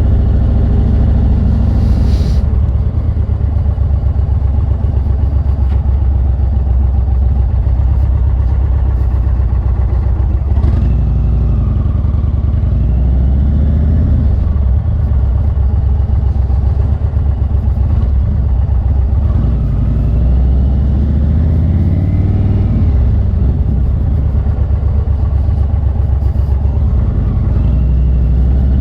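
2021 Indian Roadmaster Dark Horse's Thunderstroke 116 V-twin running while under way, its engine speed rising and falling a couple of times, around the middle and again about two-thirds through.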